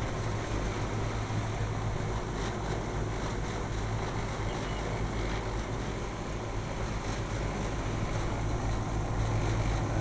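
Steady low hum of rooftop air-conditioning equipment running, an even mechanical drone with no break.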